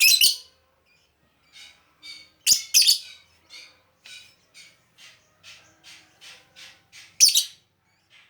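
Lovebird calling: a fast run of short, high chirps, about three a second, broken by a few loud harsh shrieks near the start, about two and a half seconds in, and again near the end.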